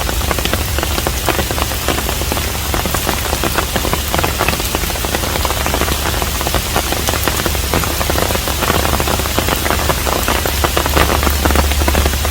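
Steady rain falling on a traditional Korean hanok house, a dense even hiss with many separate close drops ticking through it, over a steady low rumble.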